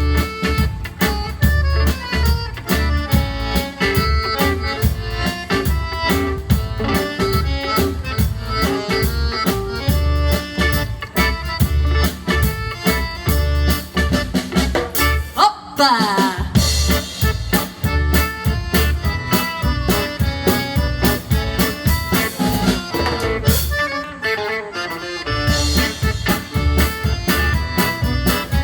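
Live band playing an instrumental original dance tune inspired by Jewish music, with accordion leading over guitar and a steady pulsing low beat. About halfway through the band breaks briefly with a falling slide. Near the end the low beat drops out for a moment before the full band comes back in.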